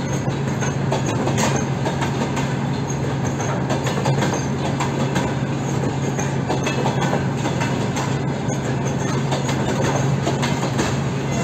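Freight train of loaded flatcars rolling past, a steady rumble of steel wheels on rail with occasional clicks.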